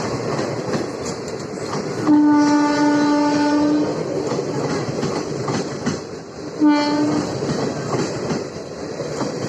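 Electric locomotive horn sounding a long blast about two seconds in and a short blast near the end, over the steady clatter of a passing express train's coaches on the rails.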